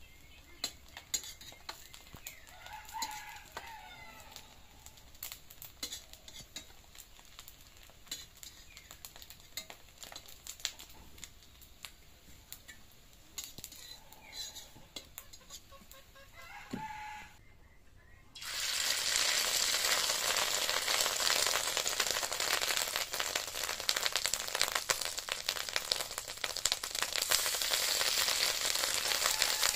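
Fish-egg fritters frying in oil in a wok, with a metal spatula clicking and scraping against the pan, and a rooster crowing about three seconds in and again about seventeen seconds in. About eighteen seconds in the sound jumps to a loud, steady sizzle and crackle as fresh fish-egg batter goes into the hot oil.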